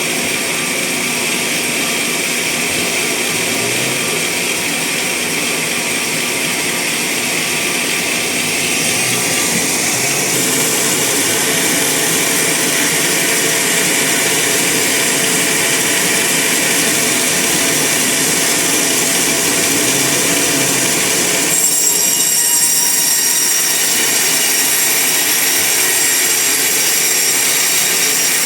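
Bandsaw sawmill cutting through a large log, a steady loud saw and motor noise. About three-quarters of the way in the sound changes, and a higher-pitched whine comes in.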